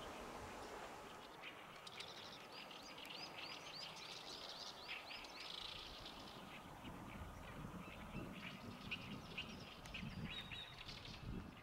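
Small bird calling: a quick run of repeated high, arched chirps, about three a second, then scattered chirping. Faint low rumbling sits beneath the chirps in the second half.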